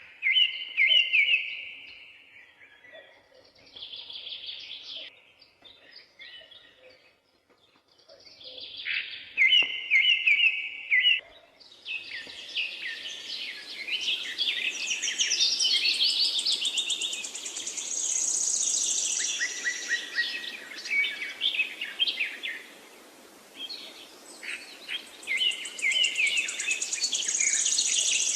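Several songbirds singing. A repeated trilled phrase returns three times, and from about twelve seconds in a denser chorus of overlapping songs and chirps comes in over a steady background hiss.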